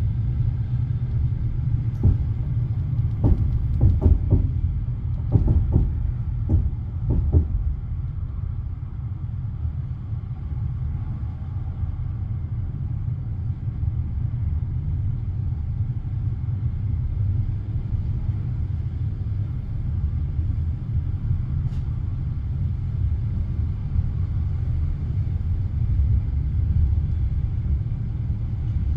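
Passenger train running on the rails, heard from inside the carriage: a steady low rumble, with a quick run of wheel clacks over the rail joints a few seconds in and a single clack near the end.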